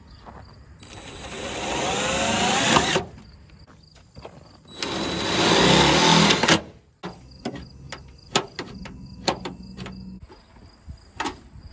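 Cordless drill driving self-tapping screws into sheet metal: two runs of about two seconds each, the motor's pitch shifting as the screw bites, followed by a series of light clicks and knocks.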